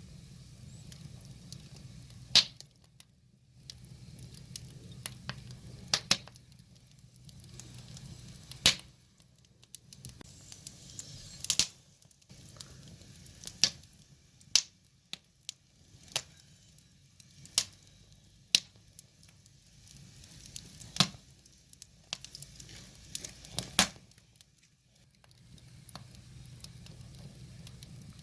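Wood fire crackling: irregular sharp pops and snaps from burning firewood, some loud and some faint, over a soft low hiss.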